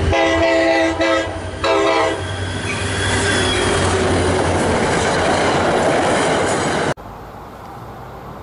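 Train horn sounding a chord in two blasts, then a train passing at speed with a steady rush of wheels on rail. About seven seconds in it cuts off suddenly to a much quieter steady background.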